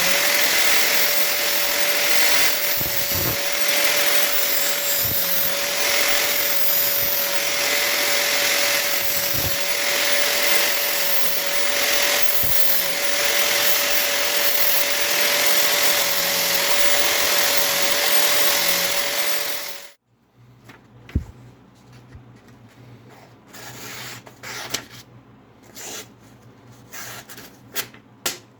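Electric power tool running steadily with a steady whine as the hunting knife's blade is sharpened on it, then cutting off abruptly about twenty seconds in. Faint scraping and light tapping follow.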